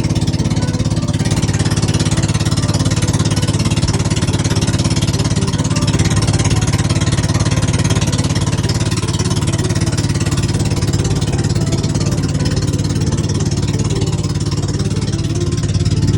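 An engine running at a steady speed throughout, with a dense steady hiss over it.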